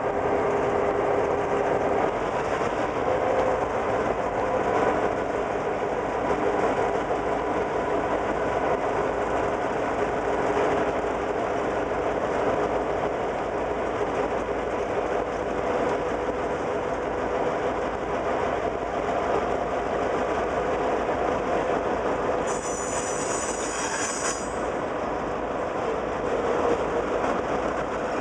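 A diesel freight locomotive and boxcars rolling slowly past, with the engine's drone and the rumble of wheels on rail. About 22 seconds in, a high metallic squeal of wheels sounds for about two seconds.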